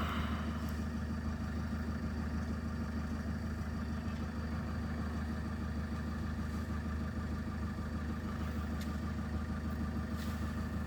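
A motor vehicle's engine idling steadily, a low even hum with a few faint clicks.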